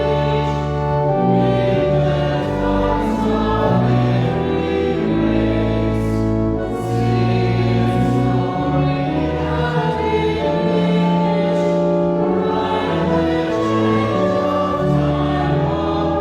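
Church hymn sung by many voices with an accompaniment of held chords and a low bass, the chords changing every second or so.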